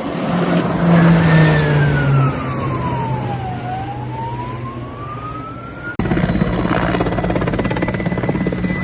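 Low aircraft engine drone that drops in pitch about two seconds in, under a siren wailing slowly down and back up. A sudden cut about six seconds in leads to a steady helicopter drone.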